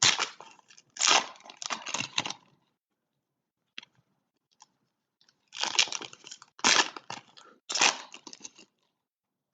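Trading cards and pack wrappers being handled: crisp rustling and crinkling of card stock and foil in two spells, with a near-quiet pause in the middle.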